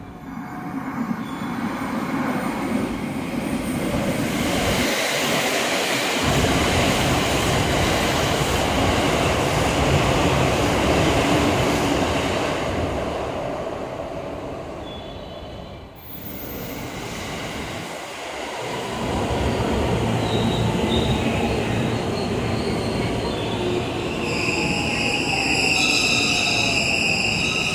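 Electric trains on the JR Sagano Line running past the platform, with steady rail and wheel noise that swells and fades. After a cut about 16 seconds in, a train pulls in alongside, its motor whine falling in pitch as it slows and high wheel or brake squeal in the last few seconds.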